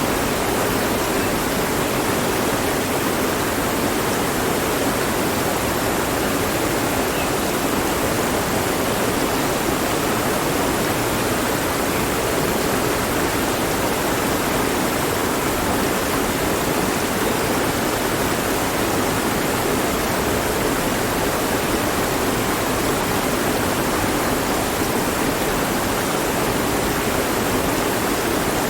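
Mountain stream flowing over rocks, a steady, even rush of water with no breaks.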